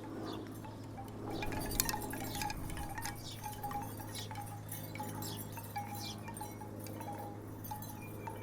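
Wooden tiki wind chimes knocking together in the breeze: clusters of hollow wooden clacks that start about a second in and keep going, over a steady low hum.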